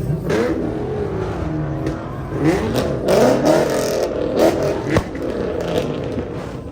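Several car engines revving at once, their pitches rising and falling over one another, with a few sharp clicks among them.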